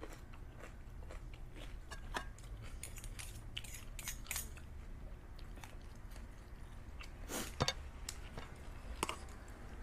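Close-up chewing and mouth sounds of someone eating stir-fried holy basil with braised pork leg, with scattered small clicks and a louder knock about seven and a half seconds in, over a steady low hum.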